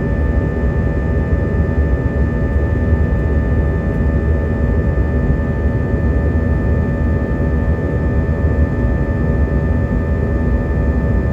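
Steady roar of an Airbus A320's IAE V2500 turbofan engines heard inside the passenger cabin during the climb after takeoff: a deep, even rumble with several steady whining fan tones above it.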